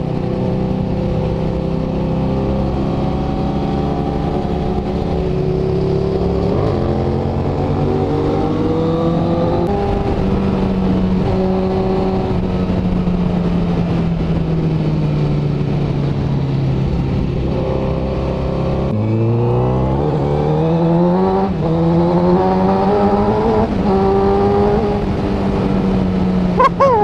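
Honda CBR1000RR's inline-four engine under way, its pitch easing down and rising again with the throttle; about two-thirds in it pulls hard, pitch climbing steeply.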